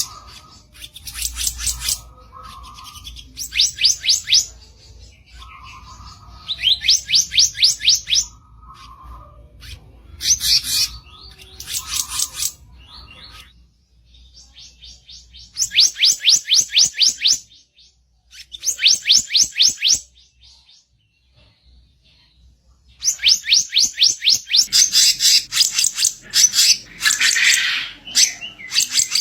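Kicap ranting songbird giving its harsh song: bursts of quick, rapidly repeated high notes, each burst a second or two long, separated by short pauses. In the first half, a short lower note sounds between the bursts.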